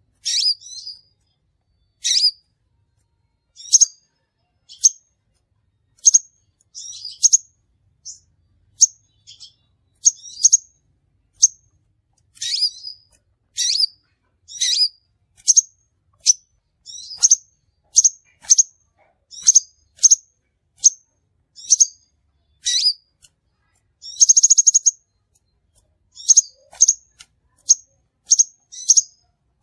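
Crimson sunbird lure-call recording: sharp, high chip calls repeated about one to two a second, with one short buzzy trill about four-fifths of the way through.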